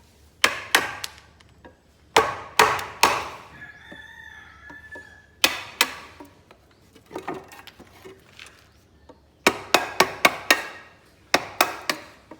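Hammer striking wood in irregular bursts of sharp blows, with a quick run of strikes near the end: nailing at a timber construction job.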